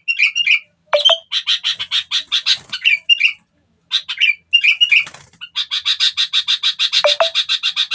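A bird calling in runs of rapid, evenly repeated chattering notes, about seven a second, mixed with short squawky notes and two sharp downward-sweeping calls. From a little after halfway the chattering runs on unbroken.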